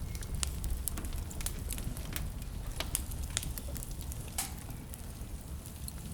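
Burning wood in a fireplace crackling, with sharp irregular pops several times a second, over a steady low rumble of blizzard wind.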